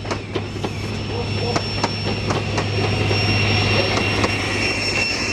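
A train running past on jointed track, its wheels clicking over the rail joints in pairs, with a steady high whine from the wheels or traction equipment that grows louder towards the end.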